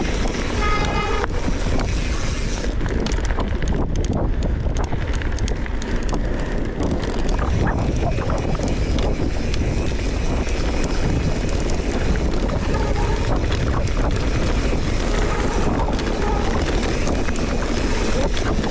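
Wind buffeting the microphone of a camera on a mountain bike riding down a rough trail, with a steady low rumble and constant small rattles and knocks from the bike over the ground. A brief high-pitched squeal comes near the start.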